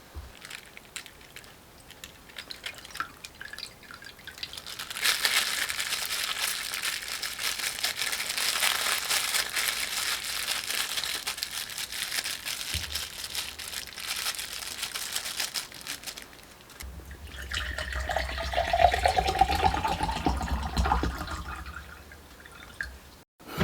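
Liquid being poured into a cup or glass: a long crackling hiss, then a second pour whose pitch rises steadily as the vessel fills.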